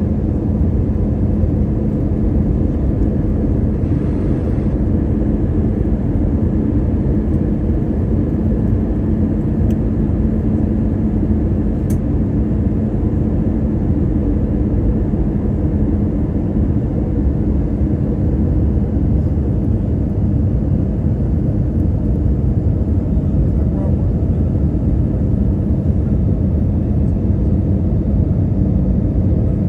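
Jet airliner cabin noise in flight: a steady, loud low drone of engines and airflow, with a hum in it that fades about halfway through.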